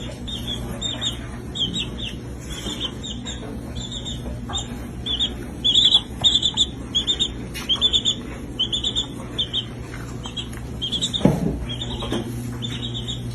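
Baby chick peeping: short, high calls repeated a few times a second.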